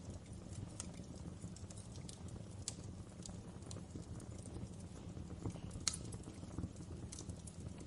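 Wood fire in a fireplace crackling, with a low steady burning rumble and scattered sharp pops and snaps, the loudest about six seconds in.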